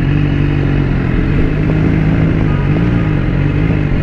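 BMW S1000RR's inline-four engine running steadily while riding in traffic, its pitch dipping and rising briefly about three seconds in.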